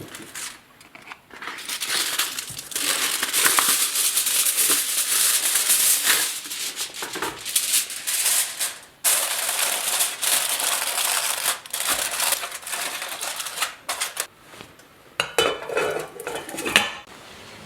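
Kitchen utensils and dishes being worked: a dense run of scratchy scraping and clicking that starts about two seconds in, breaks off briefly in the middle, and stops near the end.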